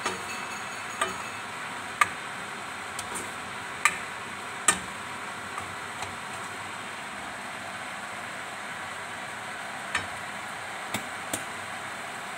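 Tempeh and vegetables sizzling steadily in a frying wok while being stirred, with a steel spoon knocking sharply against the pan a handful of times.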